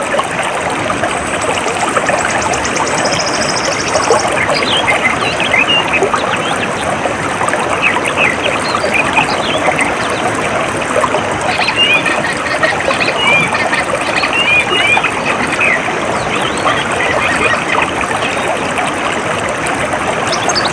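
Steady trickling, flowing stream water, with small birds chirping from about four seconds in. Near the start there is a brief fast, high-pitched pulsing trill.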